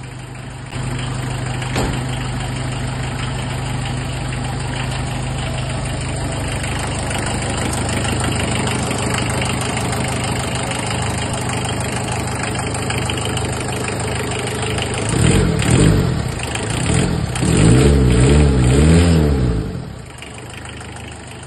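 1994 Premier Padmini diesel engine idling steadily. It is revved up and down about fifteen seconds in, then blipped repeatedly for about two seconds, before settling back to idle near the end.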